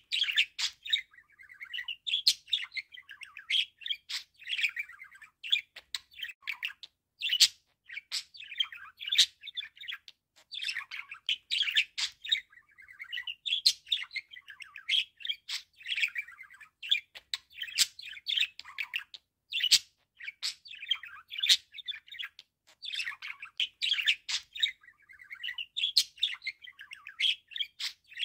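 Budgerigar warbling and chattering: a continuous, fast jumble of chirps, squeaky notes and sharp clicks with only brief pauses.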